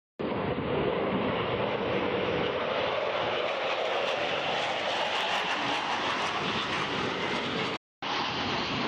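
Aircraft engine roar, a steady, loud, broad rushing noise. It cuts out abruptly for a moment about eight seconds in, then a similar roar resumes.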